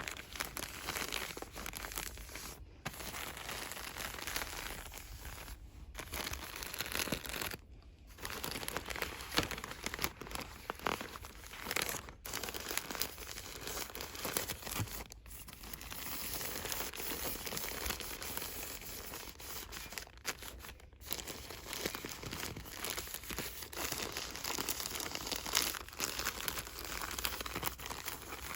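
Fast, aggressive crinkling and rustling of cosmetics and soap packaging, handled close to the microphone, broken by several brief silences.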